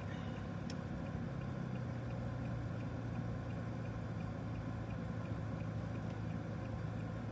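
Car engine running, heard from inside the cabin as a steady low hum, with a faint regular ticking about three times a second.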